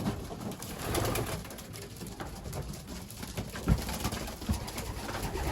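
Racing pigeons cooing in their loft, with a couple of short knocks about two thirds of the way through.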